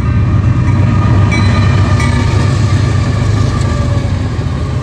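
Westbound intermodal freight train (a Z train) passing close by: a loud, steady rumble of wheels on rails, easing slightly near the end.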